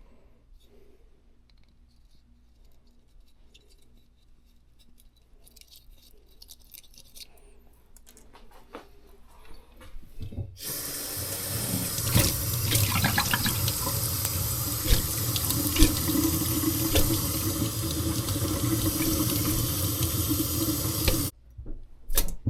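Water running in a steady rush, starting about halfway through and cutting off suddenly after about ten seconds. Before it there is only a faint low hum.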